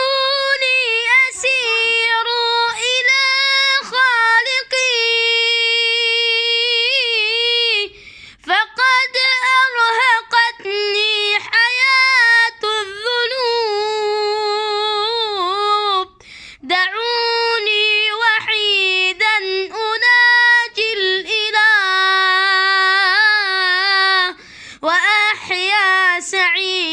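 A single high voice singing an Arabic nasheed unaccompanied, with long held notes and ornamented turns. The phrases break for short breaths about 8 and 16 seconds in and again near the end.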